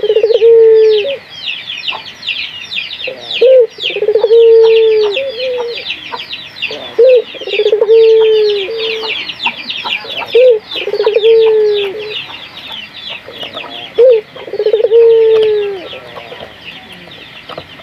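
Ringneck dove (burung puter) cooing, five times about every three and a half seconds: each coo a short note, a quick rolling trill, then a long falling note. A dense, fast high chirping runs underneath.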